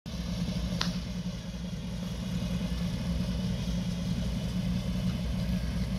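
1963 Chevrolet Impala SS's 409 cubic-inch V8 idling steadily, with one brief click about a second in.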